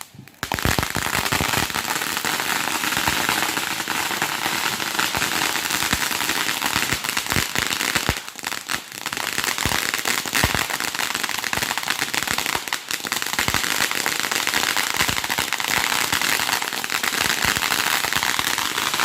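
Fireworks crackling densely and without a break, with sharper pops scattered through. The crackle starts about half a second in, eases briefly about eight seconds in, then keeps going.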